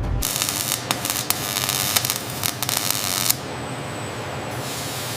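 Loud hissing with scattered sharp crackles for about three seconds, cutting off suddenly into a quieter, steady hiss.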